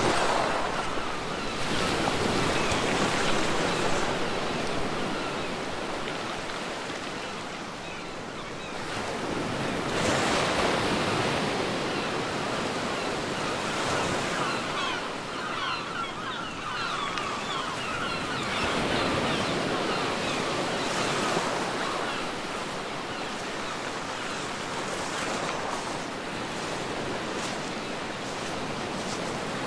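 Sea waves breaking on a beach, the surf's hiss swelling and falling back every few seconds.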